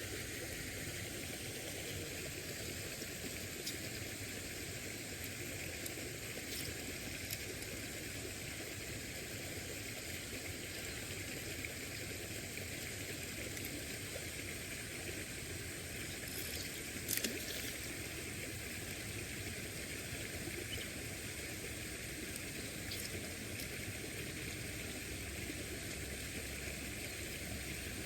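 Steady hiss of running water, with a few faint clicks and a brief clatter about 17 seconds in.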